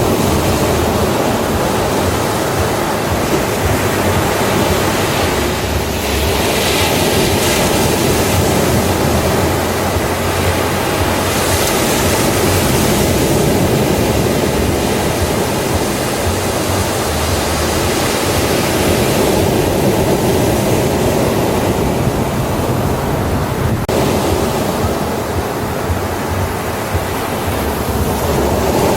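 Ocean waves breaking and washing onto a beach: a continuous rush of surf that swells and eases, with a couple of bigger waves building about six and eleven seconds in.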